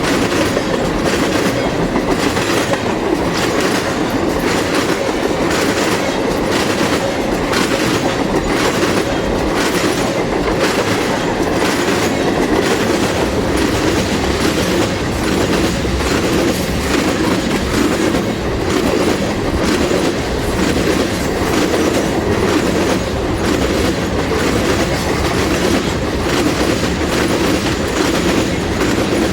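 Freight train cars rolling steadily past at close range, their wheels clacking over the rail joints in an irregular stream over a continuous rumble.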